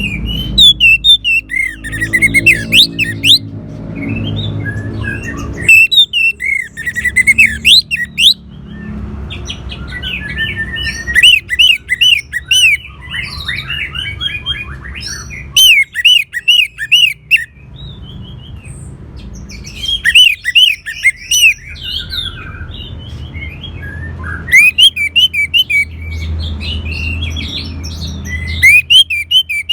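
Orange-headed thrush singing: about seven loud phrases of fast, varied whistled notes, each a second or two long, with short pauses between. A low steady hum runs underneath.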